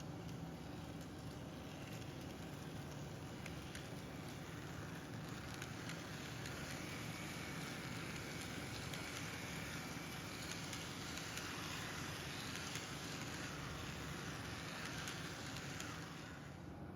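N-gauge model train running along the track: a steady whirr of motor and wheels with faint clicks. It grows louder toward the middle and drops off sharply near the end.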